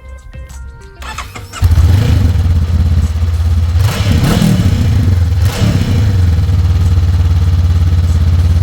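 2022 Honda CB500F's parallel-twin engine starting on its stock exhaust, catching about a second and a half in, then idling with two quick blips of the throttle near the middle.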